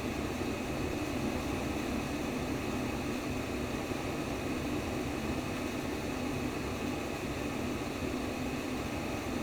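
Simulated womb sound: a steady, even whooshing noise with a low hum, used as white noise to soothe a baby to sleep.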